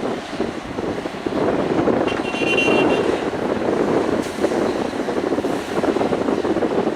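Excavator working: its engine and hydraulics running with a rough, fluctuating noise, and a brief high squeal about two seconds in.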